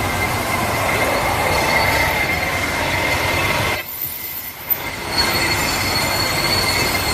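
A steady metallic squealing drone, like steel wheels grinding on rails, with a high whistle-like tone held throughout. It drops away for about a second near the middle, with a short click, then returns.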